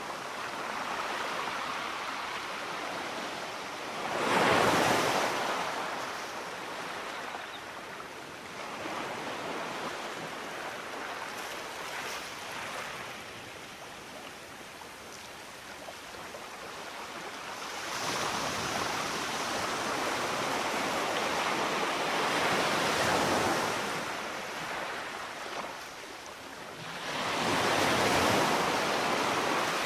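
Sea waves breaking and washing on a shore: an even rush of surf that swells and fades, with the loudest breakers about four seconds in, in the middle and near the end.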